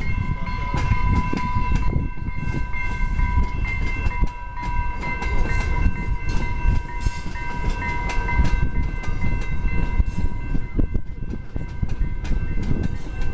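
Diesel or electric commuter train passing close by: a heavy low rumble with a rapid rattle of wheel clicks over the rail joints. Several steady high tones sound over it and fade out about two-thirds of the way through.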